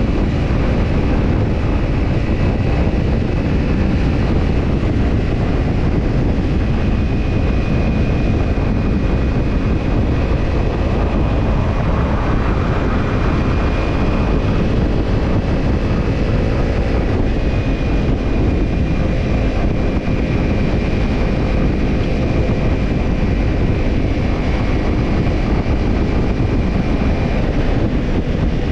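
Kawasaki Ninja 250 parallel-twin engine heard through a BEET NASSERT Evolution Type II titanium slip-on muffler, running steadily while the bike is ridden, with wind rush on the microphone.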